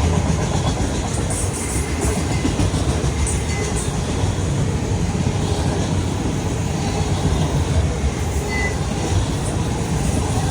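Freight cars of a CSX autorack train rolling past, a steady rumble of steel wheels on rail with some clickety-clack.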